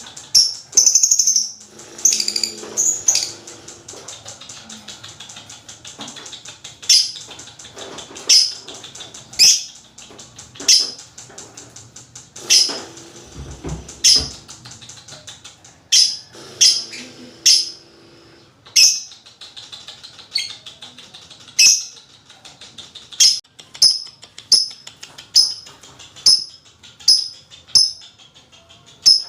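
Lovebirds chattering in a fast, continuous trill, the long 'ngekek' call, with loud sharp high chirps breaking in about every one to two seconds.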